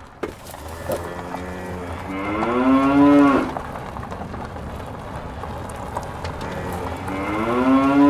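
Cattle mooing: two long, low calls, the first swelling to its loudest about three seconds in and the second starting near the end, over a steady low rumble.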